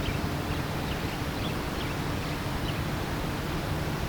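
Steady rush of a river, with faint short high chirps of Andean swallows scattered throughout.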